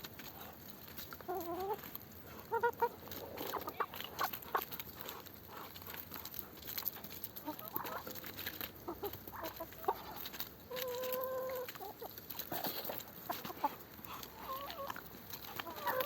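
Chickens clucking in short calls, one held a little longer about eleven seconds in, over many short clicks and rustles.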